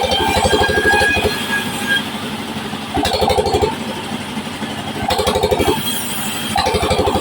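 Engine-driven sawmill bandsaw running with a fast, steady pulse throughout. It swells into louder, buzzing surges at the start, about three seconds in, about five seconds in and near the end.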